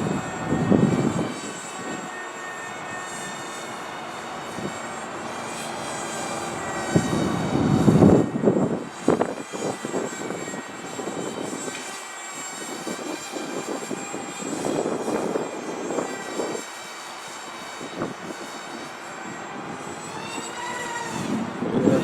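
Twin Emax 1106 8000kv brushless motors turning 3-inch propellers on a small RC flying wing, giving a high-pitched whine that rises and falls with throttle and distance. Gusts of wind buffet the microphone several times.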